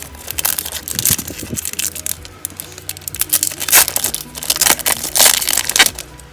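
Foil wrapper of a Pokémon card booster pack crinkling and being torn open in a run of rustling bursts, loudest from about halfway through, over steady background music.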